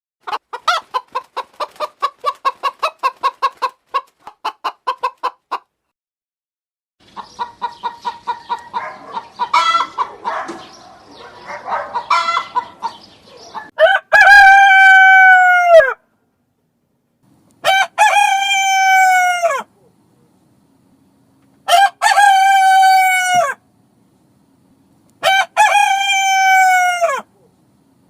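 Chickens clucking in quick runs of short calls, then a rooster crowing four times, each crow about two seconds long and dropping in pitch at its end.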